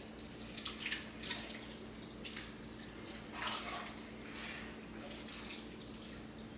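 A spoon stirring a pot of chunky, brothy soup: a few soft, wet sloshing strokes at uneven intervals, faint, over a low steady hum.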